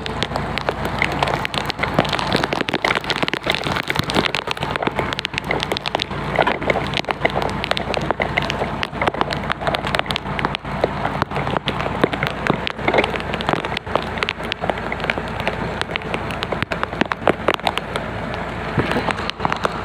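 Steady rain falling on hard surfaces, heard as an even hiss full of small, sharp drop clicks and taps.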